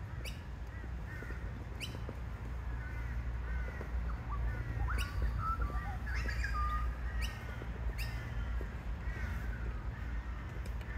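Birds calling: several short runs of harsh, falling call notes, heard over a steady low rumble, with a few sharp clicks.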